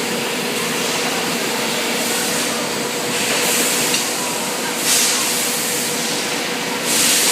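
Automatic wet enamel spray coating machine running with a steady hum, its spray guns hissing in several bursts, the loudest near the end.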